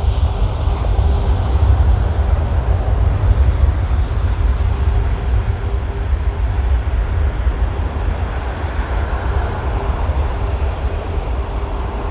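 Jet engines of an Airbus A340-600 running, a loud, steady low rumble with a faint steady hum in it. It slowly fades as the higher part of the sound dies away.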